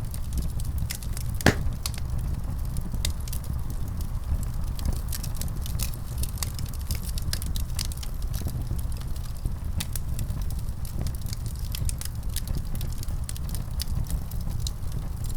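Wood fire burning in a fireplace: a steady low rumble of flames with frequent scattered crackles and pops, one louder pop about a second and a half in.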